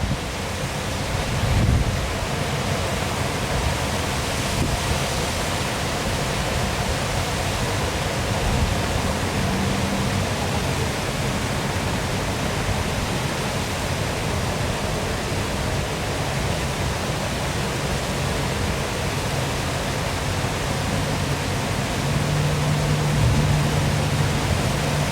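Waterfall rushing steadily, a continuous even wash of falling water. A faint low hum joins it in the last few seconds.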